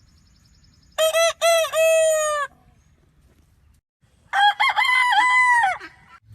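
Rooster crowing twice, the second crow higher-pitched than the first.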